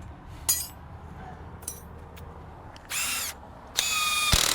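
Cordless electric ratchet running in two short bursts, about three seconds in and again near the end, spinning out a 17 mm brake caliper bracket bolt, its battery running low. A sharp click comes about half a second in.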